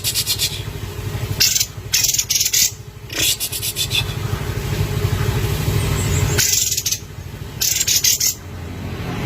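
Kapas tembak bulbul singing in short bursts of rapid, buzzy rattling trills, about six bursts with pauses between them. A steady low hum runs underneath.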